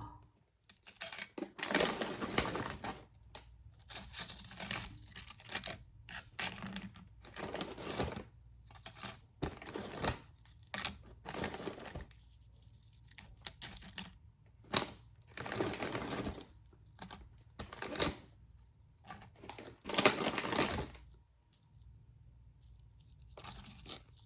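A plastic snack bag of tortilla chips crinkling and rustling as it is handled, in irregular bursts with short pauses.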